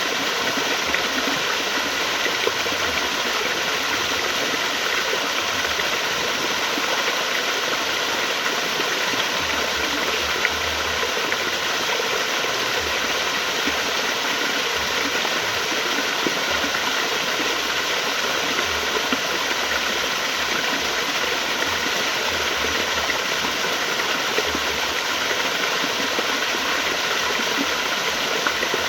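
Flowing water running steadily, an even, unbroken rush.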